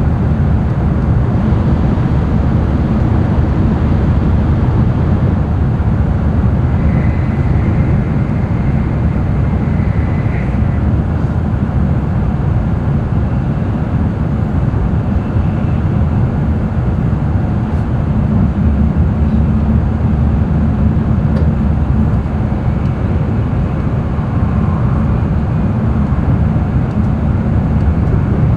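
Steady running noise of an N700-series Shinkansen train heard from inside the passenger cabin: a loud, even low rumble of wheels on rail and air rush, with a faint high whine for a few seconds near the start.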